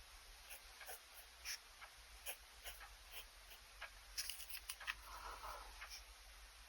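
Pen nib scratching on sketchbook paper in short, quick strokes and taps, with a slightly longer stroke about five seconds in.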